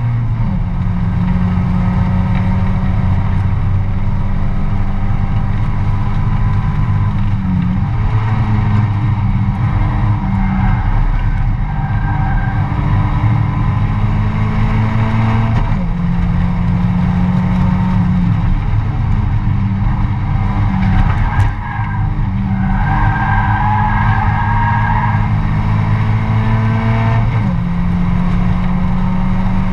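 A Mazda MX-5 race car's four-cylinder engine, heard from inside the cabin, running hard under race load. Its note steps abruptly several times at gear changes.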